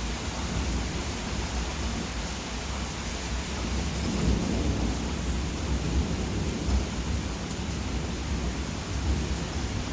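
Steady rain during a thunderstorm, with low rumbling thunder underneath that swells about four seconds in.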